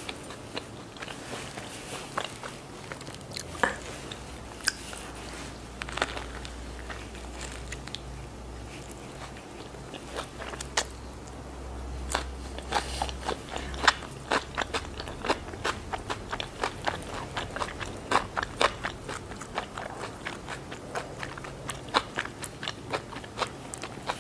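A person chewing a bite of Vietnamese fresh spring roll close to the microphone: crisp crunching of the lettuce filling and rice paper, as a string of sharp clicks that comes faster and thicker in the second half.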